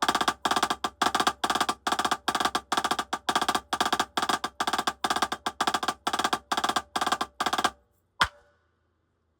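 Snare drum played with sticks in quick, even groups of single-stroke fives, about three groups a second, in a rudiment exercise. The playing stops just under 8 seconds in, followed by one lone stroke.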